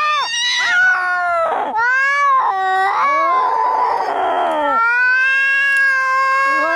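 Angry cats caterwauling in a fight: long drawn-out yowls that bend up and down in pitch, broken about halfway by a hiss lasting over a second, then another long yowl.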